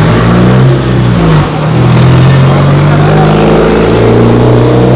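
A motor vehicle engine running close by in city street traffic, its pitch shifting up and down a few times, over loud traffic noise.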